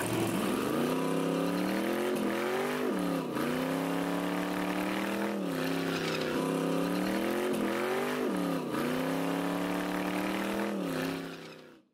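Race car engine revving hard through a tyre burnout. Its pitch drops sharply and climbs back several times, and the sound fades out near the end.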